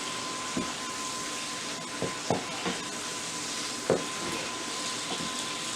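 Mushrooms sizzling in a pan of butter and olive oil, a steady frying hiss with a few soft ticks and pops, as the juices cook off.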